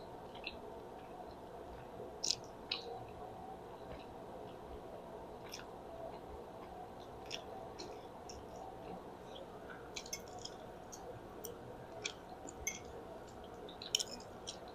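Close-miked mouth sounds of chewing spaghetti: soft, wet smacks and clicks at irregular intervals, with a couple of sharper smacks about two seconds in and near the end.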